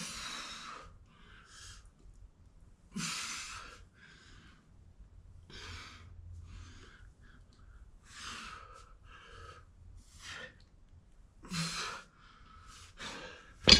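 A person breathing hard during a workout: heavy, hissing exhales about every two seconds. A single sharp knock comes at the very end.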